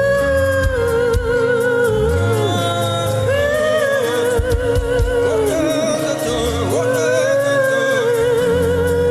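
Gospel worship music: a single voice sings a slow wordless melody with a wide vibrato, over held low bass notes.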